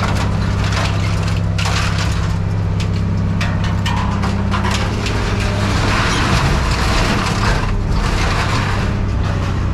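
Scrap metal clanking and crunching over the steady drone of a heavy machine's engine, with a stretch of denser grinding and crushing a little past the middle.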